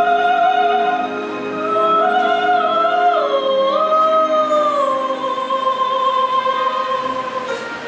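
A single voice singing long, held notes that glide slowly up and down between pitches, over steady sustained accompaniment, easing off slightly toward the end.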